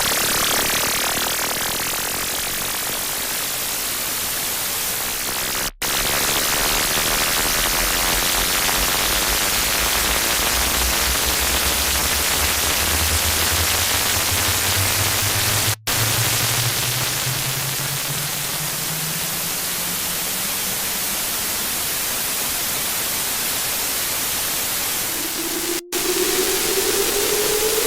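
Loud, distorted harsh-noise static filling every pitch, with a low hum that slowly rises in pitch through the middle and a higher tone gliding upward near the end. The noise cuts out for an instant three times, about ten seconds apart.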